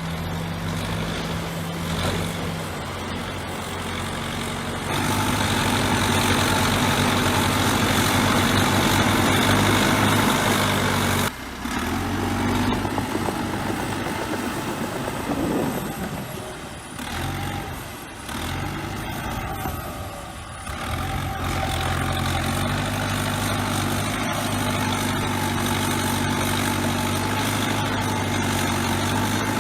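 Bulldozer's diesel engine running, working harder and louder for several seconds, then breaking off abruptly. It falls away and shifts in pitch for a few seconds before settling into a steady, even run near the end.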